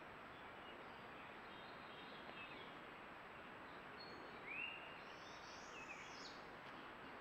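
Faint bird calls over a steady hiss: a few scattered short chirps, the clearest a quick arched note about four and a half seconds in, followed by a cluster of higher chirps.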